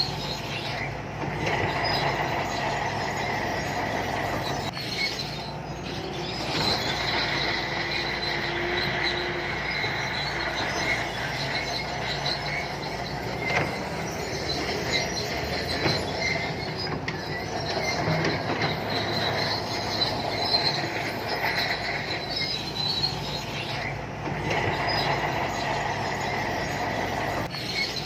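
SANTUI crawler bulldozer working: the diesel engine runs steadily under the high, continuous squeal of its steel tracks, which rises and falls in waves.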